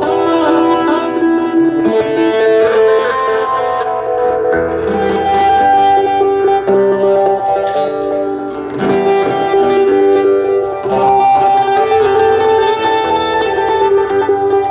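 Guitar music: plucked, sustained guitar notes with a lead melody line.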